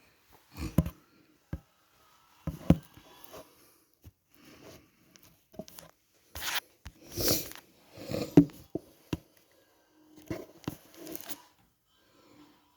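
Irregular rustling and handling noises with a few sharp knocks, in short bursts, the busiest stretch a little past the middle.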